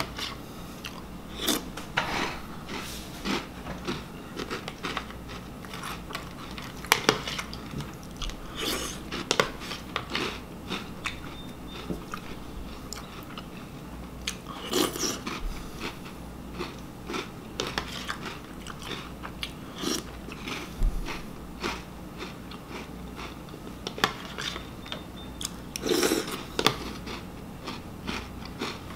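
Close-up chewing of mouthfuls of crunchy Reese's Puffs cereal: irregular crunches throughout, a few of them louder.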